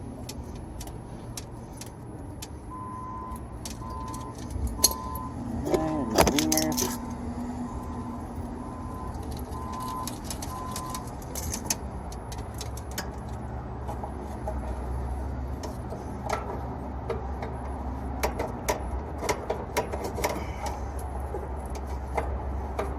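Light metal clicks and taps of copper tubing, fittings and hand tools being handled, over a steady low hum. From about three seconds in there is a run of short, evenly spaced beeps, and around six seconds a brief louder sound that slides in pitch.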